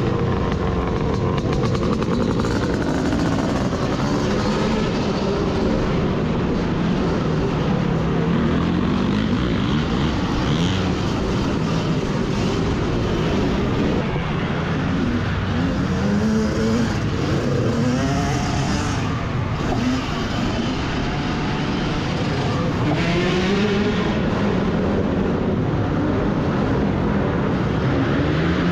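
Dirt bikes riding laps of a motocross track, their motor pitch rising and falling again and again as they accelerate and back off, over a steady rushing noise.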